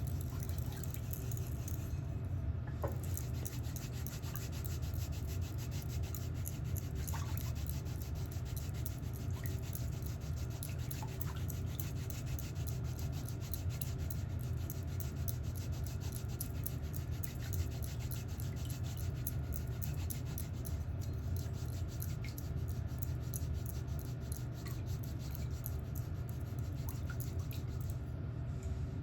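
Toenail being filed down, a fast steady rasping scratch, over a constant low hum.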